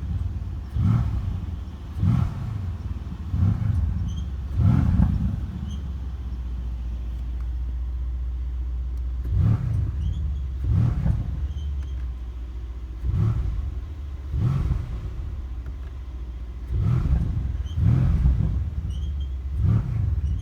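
Mercedes-AMG C63 S twin-turbo V8 idling and being blipped repeatedly, each short rev rising and falling back, with a pause of steady idle about a third of the way in. Faint short squeaks come from the performance exhaust's flaps: a fault that a paid service fix cured for only four days.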